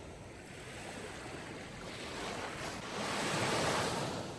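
Sea waves washing on a shore: a steady hiss of surf that swells into a louder wave about three seconds in, then eases off.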